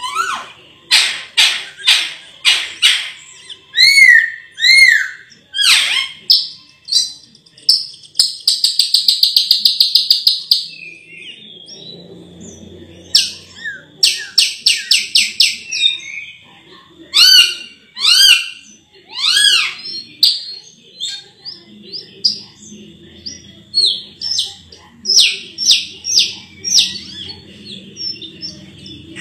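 Sulawesi myna (raja perling) singing a varied run of loud, sharp chirps and arched whistles, with a long rapid trill about eight seconds in.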